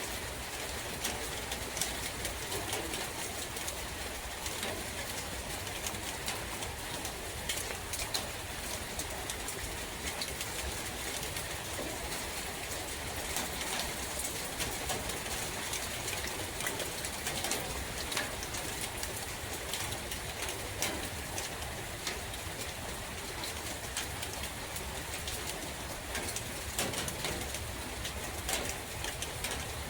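Steady rain falling in a forest, an even hiss dotted with many scattered drop ticks over a low rumble, with birds calling now and then.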